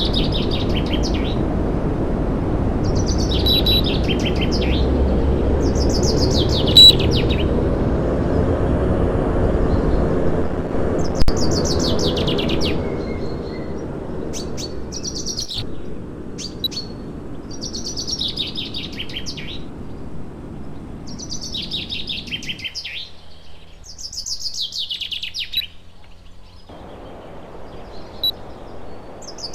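A bird repeats a short, falling, rapid-pulsed trill every two to three seconds. Under it is a steady low rushing noise that fades out and stops about three-quarters of the way through.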